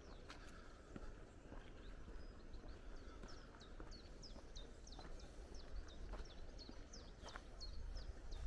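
Footsteps on a woodland path, with a small songbird singing a quick run of short high chirps starting about two seconds in.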